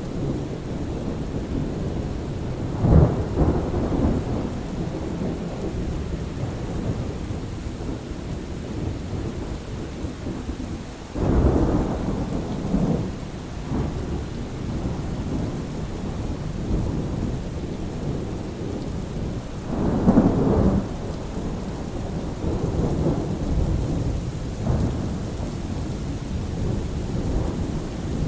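Thunderstorm: steady rain with rumbles of thunder, loudest about 3, 11 and 20 seconds in, and another rumble building near the end.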